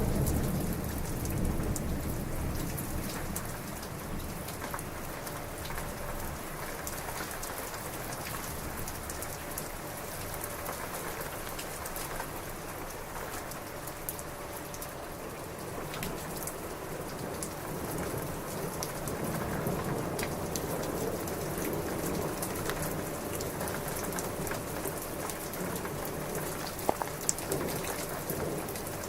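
Heavy rain falling steadily, with many individual drops tapping through the hiss. A thunder rumble dies away over the first few seconds.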